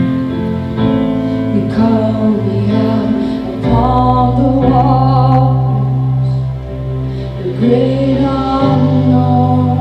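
Church worship music: a slow song played by a band, with sustained low bass notes under held chords and singing coming in about two seconds in.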